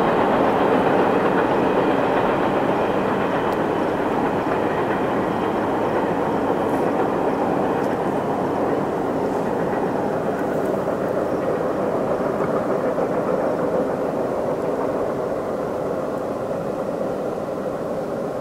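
A CN train rolling by on the track, with steady wheel-on-rail noise that slowly fades as the train moves away.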